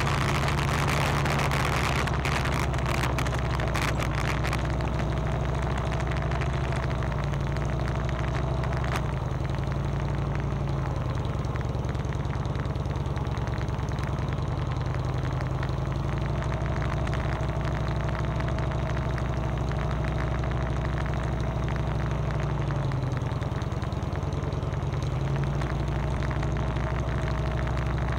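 Motorcycle engine running at a steady, even pitch, picked up by a camera mounted on the bike. A patch of crackling or rattling comes in the first few seconds.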